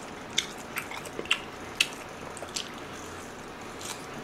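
Biting and chewing on a marinated pork rib held in the hands, heard close up as a scattered string of small, wet mouth clicks.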